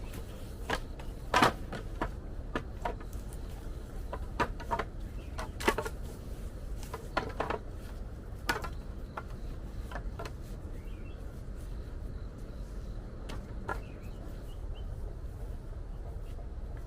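Scattered sharp knocks and clicks, a dozen or so at uneven intervals and thickest in the first half, over a steady low rumble.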